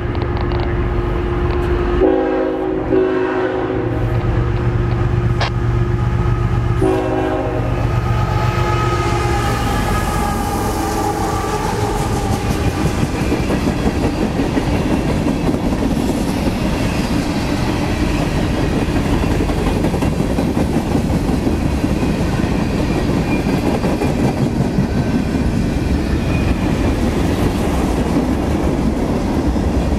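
CSX freight locomotive's air horn sounding several blasts in the first seven seconds or so, the last starting about seven seconds in. After that comes the steady rumble of a passing manifest freight train, its covered hoppers, boxcars and gondolas going by with a clickety-clack of wheels.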